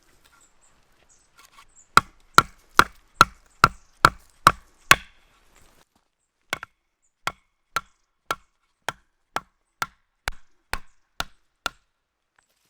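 Tent pegs being hammered into the ground: a run of eight hard blows about two and a half a second, a short pause, then about a dozen lighter blows at a slightly slower pace. Each blow has a brief ringing note.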